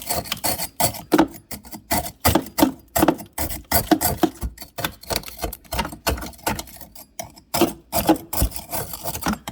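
A hand tool chipping and knocking at ice jammed in a refrigerator ice maker, with loose ice clattering: quick, irregular strikes, several a second.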